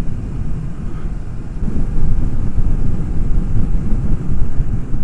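Wind rushing over the microphone while riding a Kawasaki Ninja 250R motorcycle at about 45 mph, with the bike's running and the road noise mixed into a rough, steady rush. It gets louder about two seconds in.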